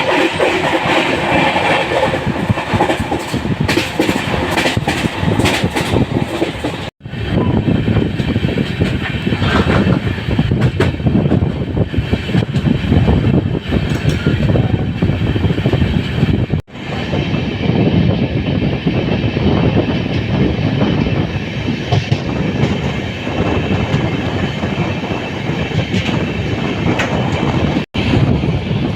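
LHB passenger coaches of an Indian express train running along the track: a loud, steady rumble of wheels on rail with sharp clicks of the wheels over rail joints. The sound drops out abruptly for an instant three times.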